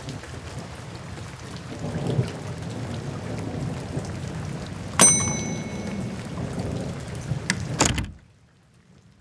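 Heavy rain with rumbling thunder (sound effects). About five seconds in, a small bell rings once and rings out. Near the end there are a few knocks, and the rain sound cuts off suddenly to a faint hush, like a door shutting it out.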